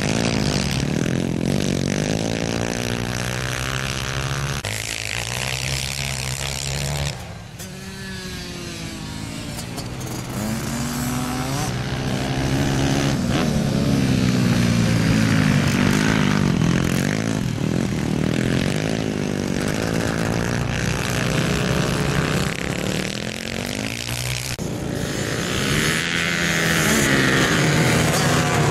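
Single-cylinder four-stroke pit bike engine, a YX150 bored out to 187cc with a Takegawa kit, racing laps. It revs up on the straights and drops back into the corners over and over. The level dips sharply about seven seconds in.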